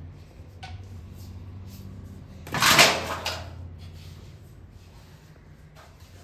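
Short pieces of PVC pipe and fittings being handled, with light clicks and one louder scraping clatter lasting about a second, a little over two seconds in, over a steady low hum.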